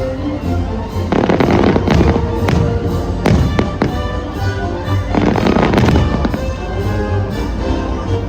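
Fireworks bursting again and again, a run of sharp bangs with rumbling tails, over loud music.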